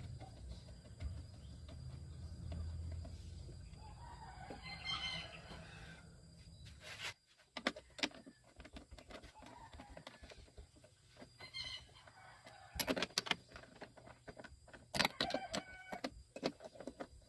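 Chickens calling, with a rooster crowing a few times, among scattered sharp clicks and knocks.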